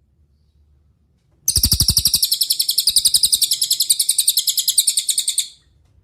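A cililin songbird sings one loud, rapid trill of high repeated notes, about a dozen a second, starting about a second and a half in and stopping abruptly near the end. A few low thuds sound under the first part of the trill.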